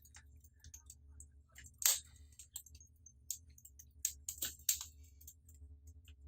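Wood fire crackling in a brick fireplace: irregular sharp snaps and ticks, the loudest about two seconds in and again around four and a half seconds, over a low steady hum.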